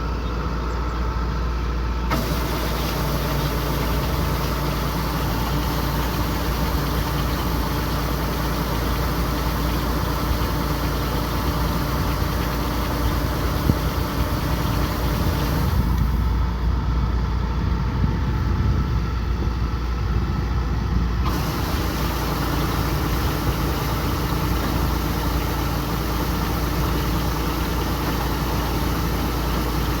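Kubota combine harvester's diesel engine and threshing machinery running steadily. The sound shifts abruptly a couple of times.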